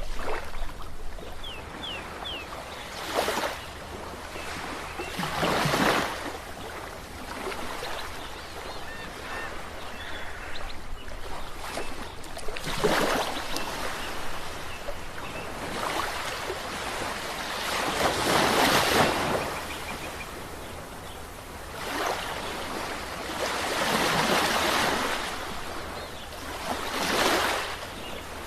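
Sea waves breaking and washing in and out, surging louder every few seconds with a steady rush of surf between the breaks.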